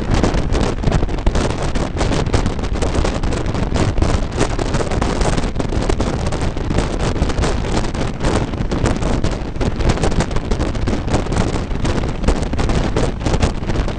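Wind buffeting the microphone over the steady rumble of a moving train carriage.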